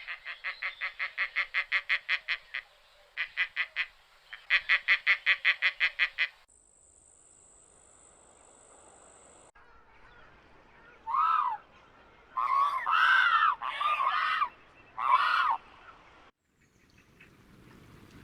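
Animal calls. First come three runs of rapid pulsed chattering, about five pulses a second. A steady high-pitched whine follows for a few seconds, then four short honking calls that rise and fall in pitch.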